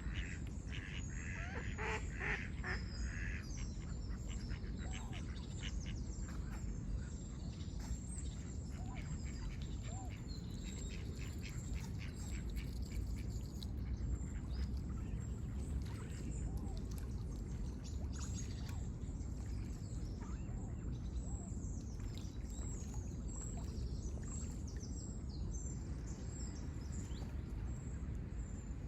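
Ducks quacking, loudest in the first few seconds, among many short chirps of small birds, over a steady low background rumble.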